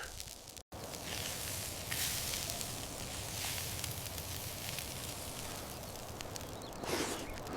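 Steady hissing and crackling of food cooking over a fire, broken by a sudden short silence less than a second in.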